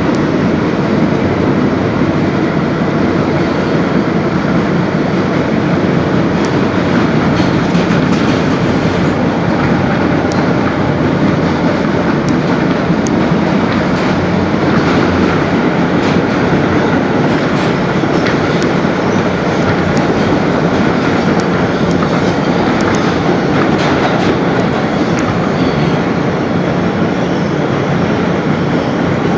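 Interior of an R160B subway car running steadily between stations: a constant loud rumble and rush of wheels and tunnel, with faint clicks of the wheels passing over rail joints.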